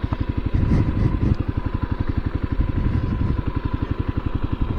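Motorcycle engine running at low revs, a steady, even beat of exhaust pulses.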